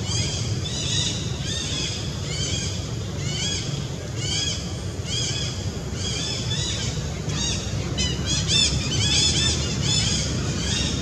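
A bird calling over and over, each call a short chirp that rises and falls, about two a second and quicker for a moment near eight seconds, over a steady low outdoor rumble.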